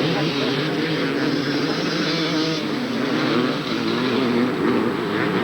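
Several two-stroke 250 cc motocross bikes racing, their engines revving up and down with pitches that waver and overlap.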